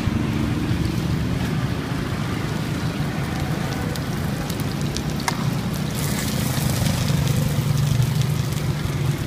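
Chive cakes sizzling and crackling in oil on a flat metal griddle pan, over a steady drone of street traffic and motorbike engines.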